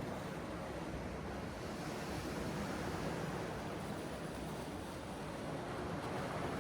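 Sea surf washing steadily, with wind.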